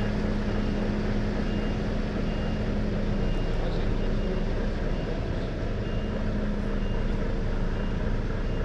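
Articulated lorry's diesel engine running steadily while reversing, with the reversing alarm giving short, evenly spaced beeps, about three every two seconds.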